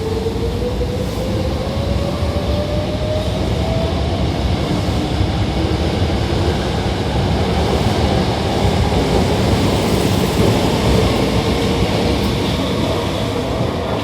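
Hankyu 6000 series electric train pulling away and gathering speed: its traction motors give a whine that rises in pitch, over the steady rumble of wheels on rail.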